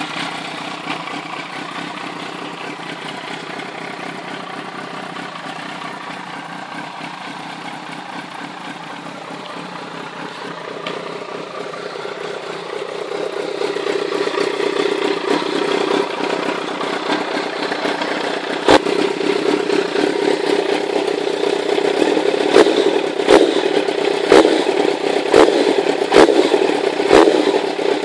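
Yamaha YZF-R1's inline-four engine running: a steady idle that grows louder about halfway through, then over the last ten seconds a series of sharp cracks about once a second on top of the engine note.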